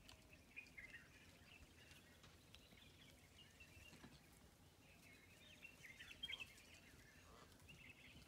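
Faint birdsong: repeated short chirps and warbled phrases from small birds, over quiet forest ambience.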